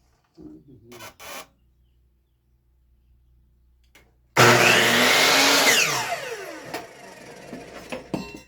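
Electric saw cutting through a wooden fence picket: the motor starts suddenly and loud, runs through the cut for about a second and a half, then winds down with a falling whine as the blade coasts to a stop. Light knocks of the board being handled come first.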